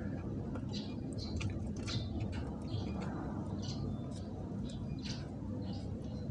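Small birds chirping: short, high chirps at irregular intervals over a steady low background rumble.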